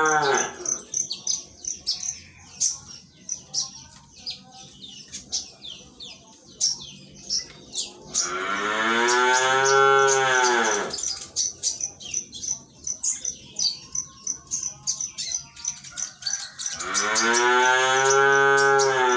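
A cow moos twice, each a long call of about three seconds that rises and then falls in pitch. In between, a small songbird chirps in quick, short notes.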